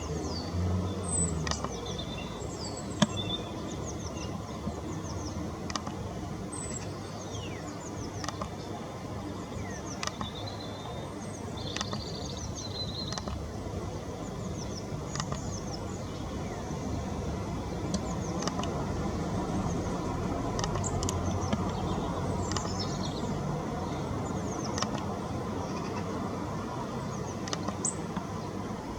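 Wild garden birds calling: many short, high chirps and quick sweeping notes, scattered throughout over a steady low background hum.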